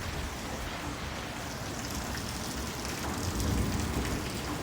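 Rain mixed with hail falling in a steady patter, with faint ticks of hailstones striking, swelling a little about three seconds in.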